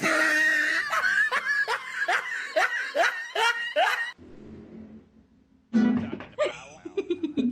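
Laughter: a rapid run of high-pitched, falling 'ha' sounds for about four seconds, then after a short lull a briefer burst of voice near the end.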